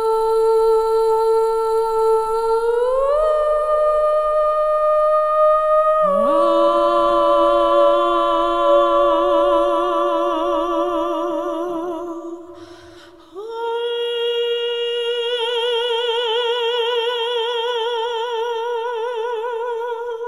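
Voices singing long held "ooh" notes in harmony, gliding up to a higher note about three seconds in, with a lower second voice joining about six seconds in. After a short break near the middle they rise again and hold the last notes with a marked vibrato.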